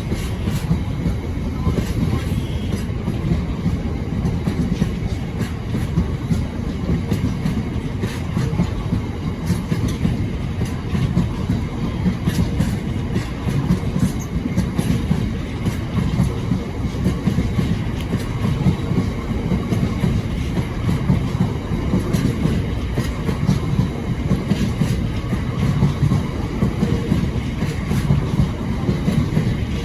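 Freight train hauled by a GB Railfreight Class 66 rolling past close by, its wagon wheels clattering over the rail joints in a steady run of clicks over a continuous rumble.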